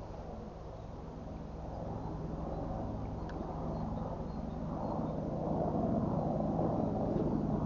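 A motor engine running with a steady low hum, growing gradually louder.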